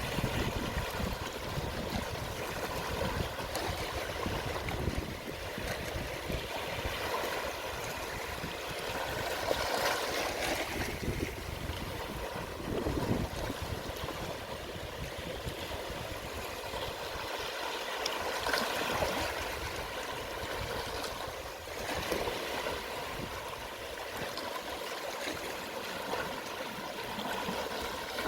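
Gentle sea waves washing onto the shore at low tide: a steady rush of water that swells every eight or nine seconds as each small wave breaks and runs up the beach.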